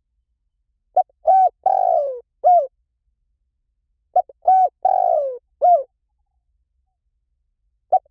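Spotted dove cooing: two phrases about three seconds apart, each of a few short coos around a longer, falling coo, with the start of a third phrase right at the end.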